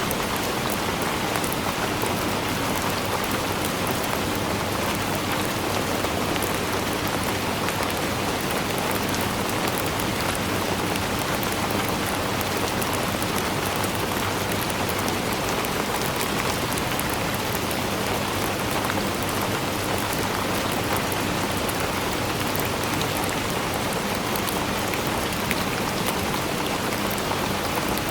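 Steady rainfall, a dense even hiss with many fine drop patters on a surface.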